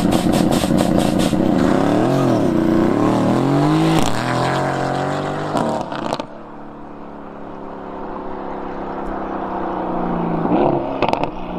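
Mercedes-AMG GT's twin-turbo V8 revving, its pitch swinging up and down several times. About halfway through it goes quieter, running steadily with a slowly falling note as the car pulls away.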